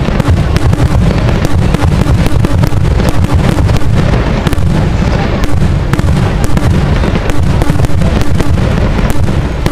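Fireworks going off in a dense, continuous barrage: deep booms overlaid with many sharp cracks and pops, with no break, very loud.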